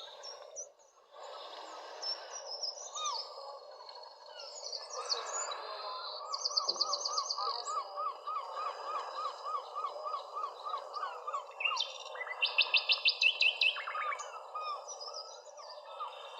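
Several wild birds calling over a steady background hiss: a long run of quick repeated chirps through the middle, and two fast high trills, the louder one a little after the middle.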